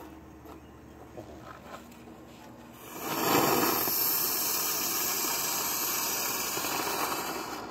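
A ground firework hissing steadily as it sprays, starting suddenly about three seconds in and tailing off near the end, with no pops or bangs.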